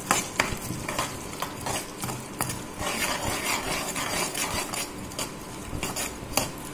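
Edible gum (gond) crystals frying in hot ghee in a nonstick pan: a steady sizzle as the gum puffs up, with a metal spoon stirring, scraping and knocking against the pan many times.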